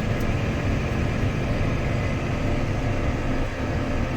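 Tractor diesel engine running steadily under way at low speed, not in its high gear.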